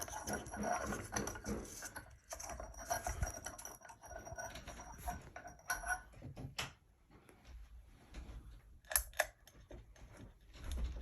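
Small clinks and rattles of LED bulbs being handled and fitted into a ceiling fan's light kit, with a pair of sharp clicks about nine seconds in.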